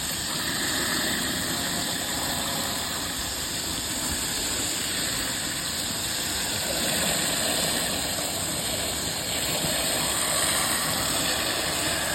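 A machine running steadily with a strong continuous hiss.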